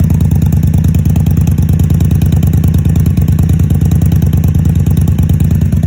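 Indian Scout Sixty's V-twin engine idling steadily through Vance & Hines Grenades slip-on exhaust, a loud, even pulsing beat.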